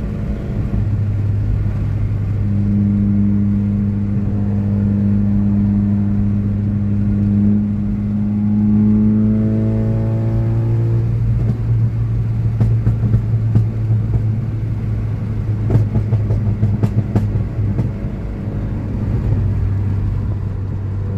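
Straight-piped Ford Focus RS Mk3 with its 2.3 L turbocharged four-cylinder, heard from inside the cabin: a loud, steady exhaust drone, a pull that rises in pitch about nine to eleven seconds in, then a run of crackling pops from the exhaust as the throttle comes off. The muffler has been removed, which is what makes it this loud.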